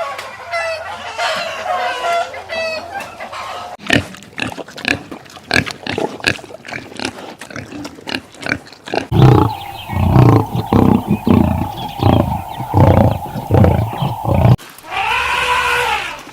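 A run of farm animal calls: wavering pitched calls at first, then low grunts repeating several times a second in the middle, and one arching call near the end.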